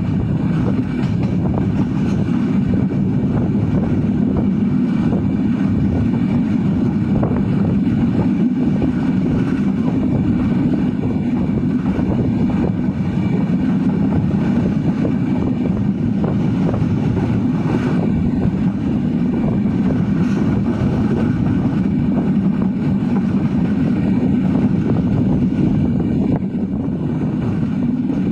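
Silkcity Express passenger train running along the track, a steady rumble of wheels on rails heard from aboard the moving train.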